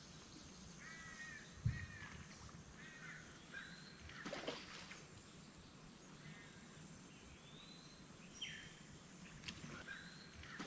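Wild birds calling: a run of short, repeated harsh calls in the first few seconds, then a couple of rising whistled notes. A single low thump about one and a half seconds in is the loudest sound.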